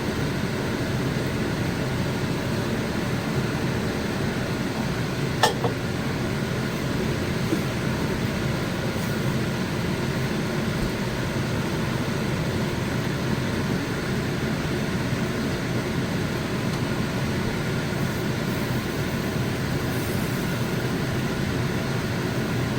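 Steady mechanical hum and whoosh, like a running fan, with one sharp click about five and a half seconds in.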